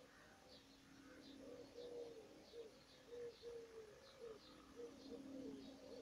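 Birds calling quietly: a low call of short notes, each hooking downward, repeats about two or three times a second from about a second in, over faint high chirps from a small songbird. A faint steady low hum runs underneath.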